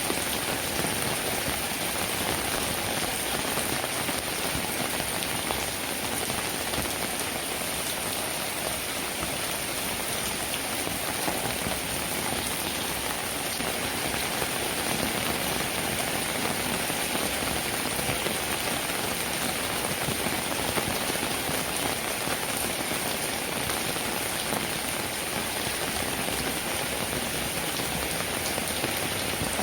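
Steady rain falling on a cabin roof: an even, unbroken hiss of dense raindrops that holds at one level throughout.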